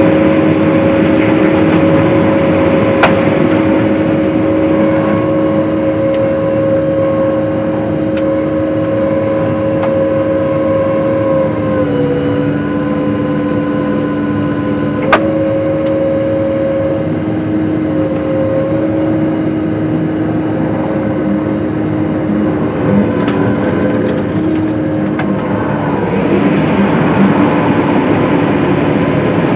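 Case IH windrower cutting hay, running with a steady drone that dips slightly in pitch about twelve seconds in. Two sharp clicks sound, one a few seconds in and one about halfway through.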